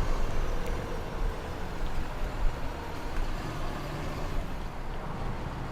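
Engines running, a steady low rumble.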